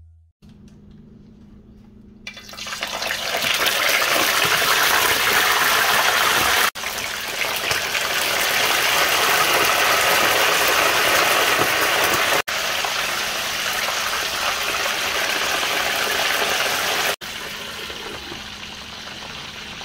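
Chicken quarter deep-frying in hot oil in a large pan: a loud, steady sizzling and bubbling that starts about two seconds in. It turns quieter and muffled near the end, once the glass lid is on the pan.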